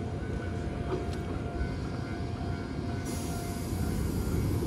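Electric train sounds at a station platform: a steady low rumble with a faint hum, joined about three seconds in by a higher hiss.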